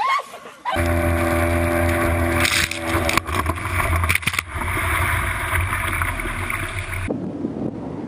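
Boat under way: engine noise with a few steady tones over rushing water and wind, starting abruptly about a second in, with a few sharp knocks in the middle. It cuts off suddenly about a second before the end, giving way to a quieter rushing noise.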